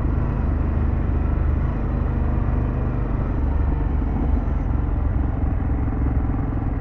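Harley-Davidson Pan America's 1250 V-twin running steadily while the bike cruises, heard from the rider's position with wind and road noise.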